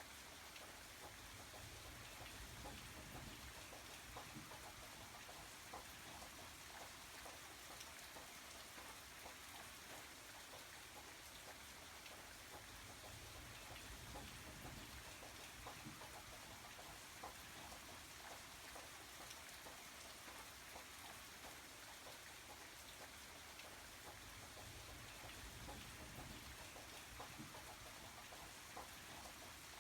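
Faint, steady rain falling, with many small drop ticks scattered through an even hiss.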